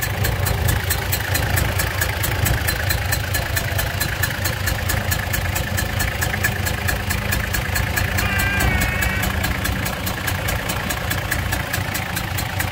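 Toyota LandCruiser 105 engine idling with a fast, even ticking from the engine bay, which a mechanic suspects is a valve problem.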